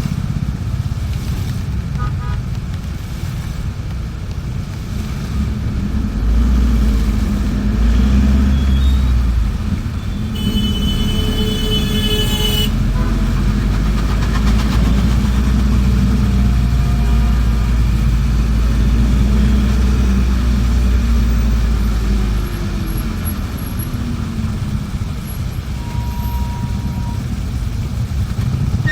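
Bus engine and road rumble heard from inside the moving bus, heavier through the middle. About ten seconds in, a high-pitched tone sounds for about two seconds.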